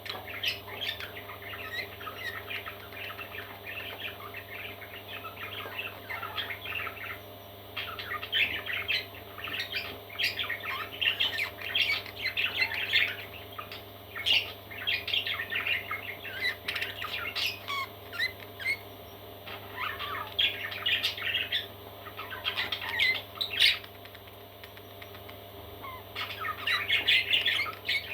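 Parrot chicks chirping and squawking in rapid, busy bursts with short lulls, over a faint steady hum.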